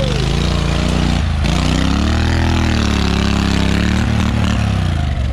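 Built off-road lawn tractor's engine running hard under load. The engine pitch dips briefly about a second and a half in, rises again and then falls off, under a constant hissing rush.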